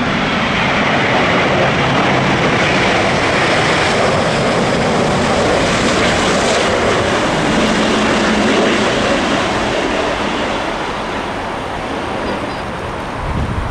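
Jet airliner on final approach to land, its engines loud and steady as it passes close by, fading slightly near the end.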